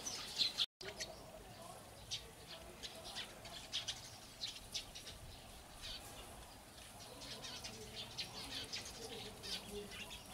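Faint, scattered short high chirps and peeps from birds, coming irregularly throughout and a little denser near the end. The sound cuts out completely for a moment just under a second in.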